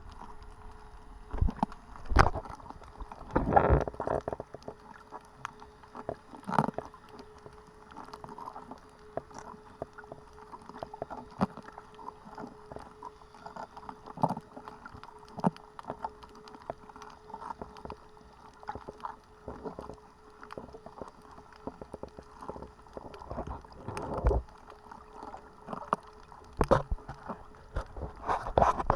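Underwater sound picked up by a submerged action camera while snorkeling: muffled water movement with scattered clicks and knocks, a few louder rumbling thumps, and a faint steady hum.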